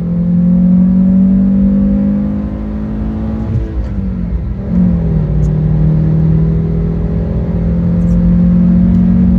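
Fiat Stilo Abarth 2.4 20V's five-cylinder engine pulling under load, its pitch rising slowly. About four seconds in the note wavers and drops for a moment, then climbs steadily again.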